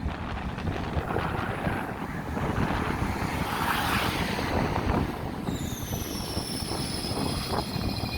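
Wind buffeting the microphone over a low rumble of vehicle noise. From a little past the middle a high whine sets in and slowly falls in pitch.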